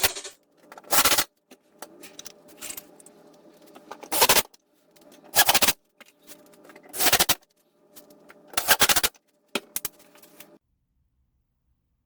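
A power tool drives fasteners into wood in about six short, loud bursts a second or more apart, with a faint steady hum between them. The sound cuts off suddenly about ten and a half seconds in.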